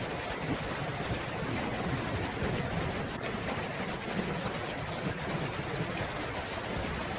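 Steady rain falling, an even hiss of drops pattering on surfaces with a low rumbling undertone.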